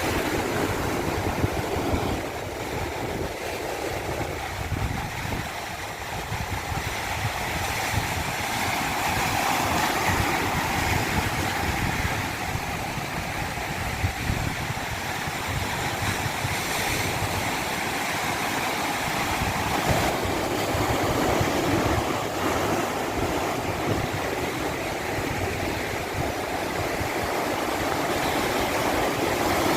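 Water of a stream cascade running steadily, a continuous rush with small shifts in tone.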